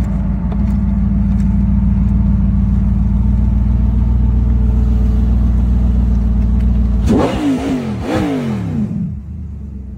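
Bugatti Tourbillon's naturally aspirated V16 engine holding steady revs for about seven seconds, then blipped up in about three quick revs that fall away, before settling to a quieter idle near the end.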